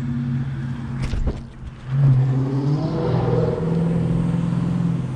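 A passing vehicle's V8 engine accelerating hard. It gets louder about two seconds in and its pitch rises as it revs. The engine is taken for a 5.7-litre Hemi, not as loud as a 392 would be.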